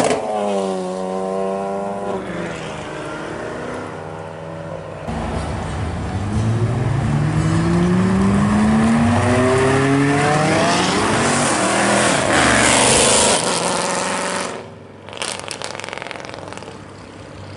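Supercar engines accelerating hard past the listener. A Lamborghini Aventador SV's V12 passes close at high revs at the start, its pitch falling as it goes by. From about five seconds in another car revs up with steadily rising pitch and gets louder, peaking around two-thirds of the way through before cutting off sharply and leaving quieter traffic.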